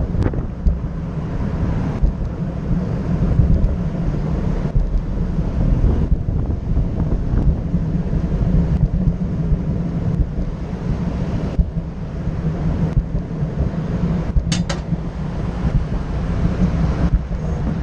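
Wind buffeting the microphone, a steady low rumbling noise. About three-quarters of the way through, a brief high-pitched squeak.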